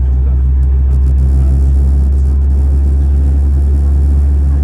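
Steady low rumble and hum inside the cabin of an Airbus A321neo on the ground after pushback.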